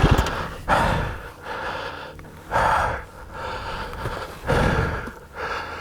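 A person breathing hard and gasping for air: three deep breaths about two seconds apart, with fainter breaths in between. The rider is out of breath and exhausted after a hill climb.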